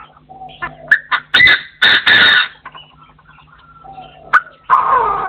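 Partridge calling: short notes building to loud, harsh calls about one and a half to two and a half seconds in, and another loud call near the end.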